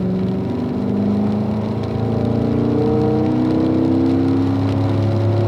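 Car engine accelerating under steady throttle out of a corner, its pitch rising slowly.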